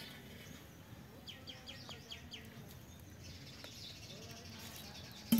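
A small bird chirping a quick run of about seven short falling notes, over faint outdoor background noise; a single sharp knock near the end.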